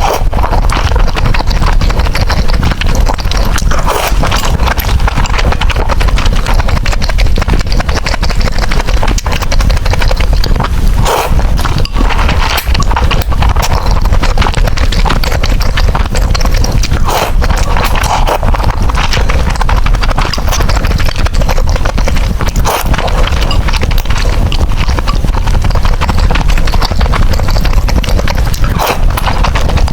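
Close-miked eating of noodles: chewing and slurping mouth sounds with a dense, irregular run of small clicks throughout.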